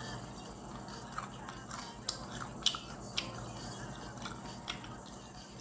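Someone chewing a fried flour pancake: soft, irregular mouth clicks and smacks over a faint hiss.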